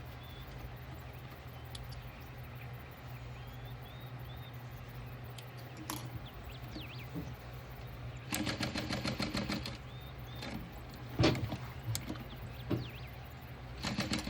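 Industrial walking-foot sewing machine stitching in two short runs: one of about a second and a half roughly eight seconds in, and a brief one near the end. A sharp click comes between them, and a steady low hum runs underneath. Faint bird chirps can be heard in the background.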